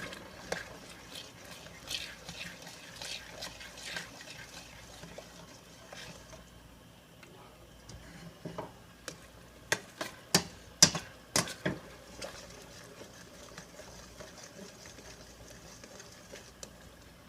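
A spoon stirring and scraping green curry paste and coconut milk in a pan, followed about ten seconds in by a quick run of sharp taps and knocks of utensil on cookware.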